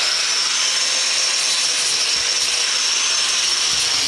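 Power grinder running continuously, loud and steady, cutting into a metal part of a salt chlorine generator to expose whether it is copper.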